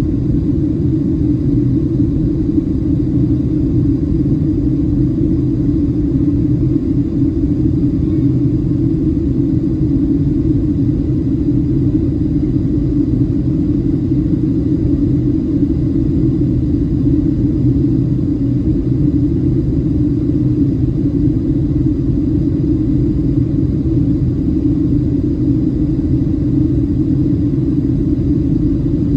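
Boeing 737-700 heard from inside the passenger cabin in flight: a steady, loud low rumble of engine and airflow noise that does not change.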